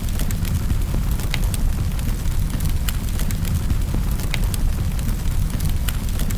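Fireplace fire burning with a steady low rumble, broken by sharp crackles and pops of the burning wood, several a second at irregular intervals.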